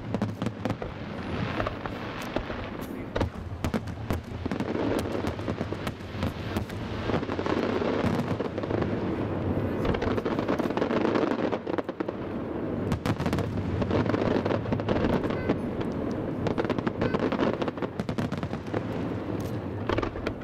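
Aerial fireworks display going off in quick succession: many sharp bangs over a continuous dense crackle, swelling and easing in waves.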